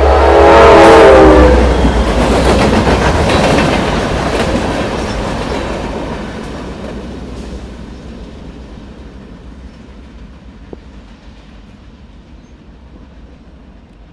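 Norfolk Southern diesel freight locomotive passing close with its horn sounding; the horn chord dips in pitch and ends about a second and a half in. Then the rumble of the engine and the clatter of freight cars over the rail joints fade steadily as the train recedes.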